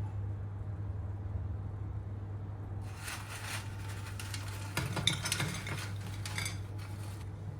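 Metal utensil clinking and scraping against dishes for a few seconds, with a few sharper knocks in the middle, over a steady low hum.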